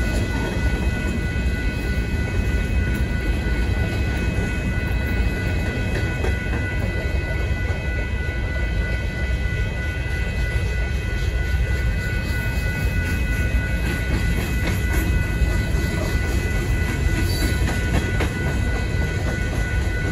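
Freight train of covered hopper cars rolling past at a grade crossing: a continuous heavy rumble with clickety-clack of wheels over rail joints. Several steady high-pitched tones sound above it throughout.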